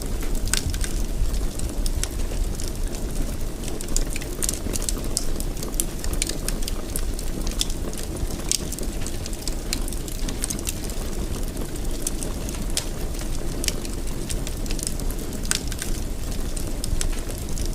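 Fire burning in a fireplace: a steady low rumble with frequent short, sharp crackles and pops scattered irregularly throughout.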